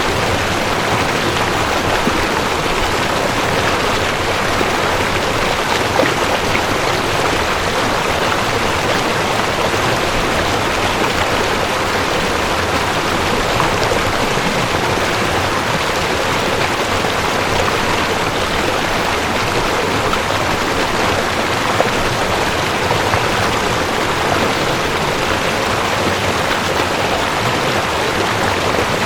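Mountain stream rushing over rocks: a steady, unbroken wash of water noise.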